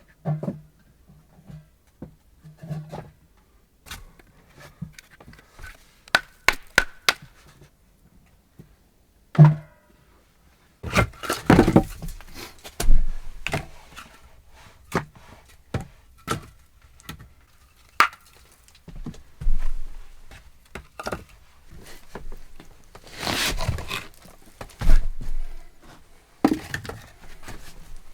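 Scattered sharp wooden knocks and cracks, irregular, with a few longer rustling scrapes about eleven, twenty-three and twenty-six seconds in: sticks or firewood being handled and broken.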